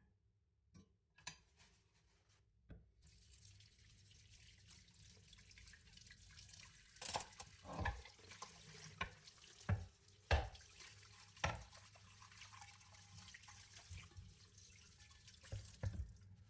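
Kitchen tap running into a sink while dishes are washed under it, with knocks and clinks of dishes against each other and the sink. A few clicks come first, the water comes on about three seconds in and stops just before the end.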